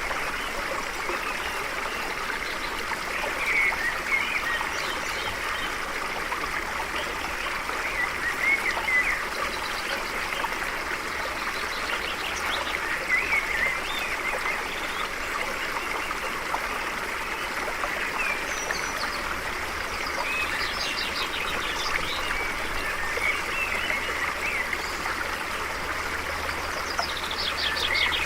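Stream flowing steadily with a continuous rushing trickle, while small birds chirp over it every few seconds; a couple of times a bird gives a quick run of rapidly repeated high notes.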